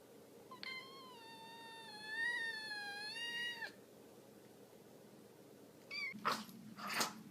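A cat giving one long, drawn-out meow of about three seconds, its pitch wavering. A short call follows about six seconds in, then a couple of brief rustling noises near the end.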